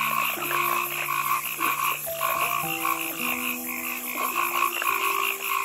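A chorus of frogs calling in quick, repeated pulses. Soft background music with slow held notes plays underneath.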